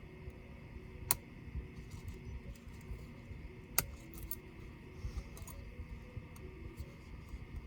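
Small clicks and taps of tools and laptop parts being handled during disassembly, with two sharp clicks about a second in and near the middle, over a low steady hum.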